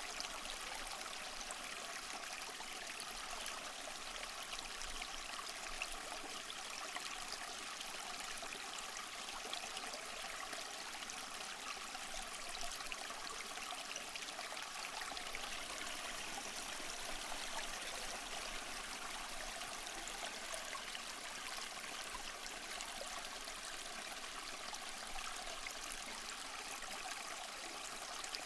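Small mossy waterfall splashing and trickling steadily, an even rush of water with no breaks.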